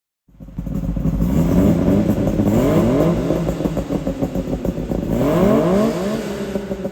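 Suzuki Jimny SJ30's two-stroke three-cylinder engine running through an APIO Matsumoto-type expansion chamber and muffler, revving up twice with a rising exhaust note.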